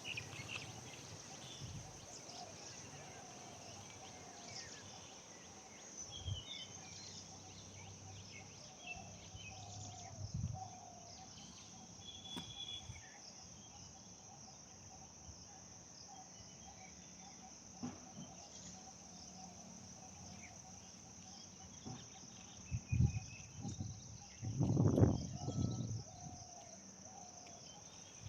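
Steady high-pitched drone of insects, with scattered faint bird chirps over it. A few low thumps and rumbles come near the end.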